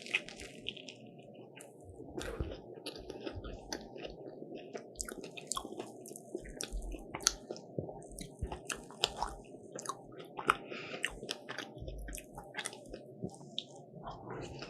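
A person chewing and biting into a croffle (croissant waffle), with a steady run of irregular crisp crunches and wet mouth sounds.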